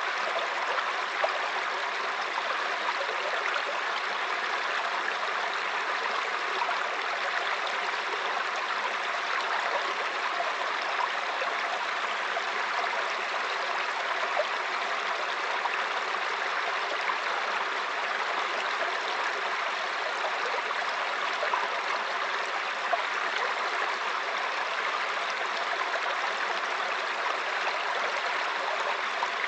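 Mountain stream babbling over rocks: a steady rush of water with small splashes and gurgles.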